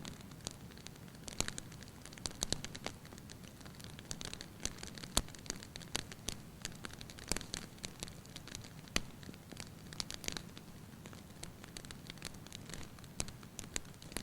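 Fire burning in a fireplace hearth, crackling with irregular sharp pops and snaps over a low, steady rumble of the flames.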